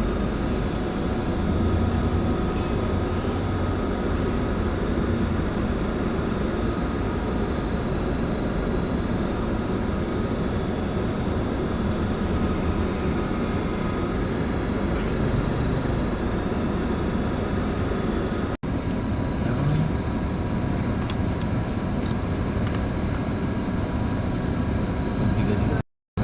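Steady rumble of a Scania K410IB coach heard from inside the passenger cabin, with a faint high whine over it. The sound drops out briefly about two-thirds of the way through and again near the end.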